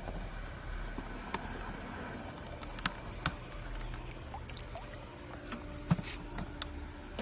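Water trickling and lapping, with a scattering of small sharp clicks and knocks.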